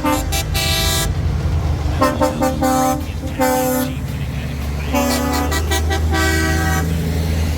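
Big trucks sounding their horns in about five separate blasts of different pitches, each lasting up to a second, over the steady low drone of truck engines.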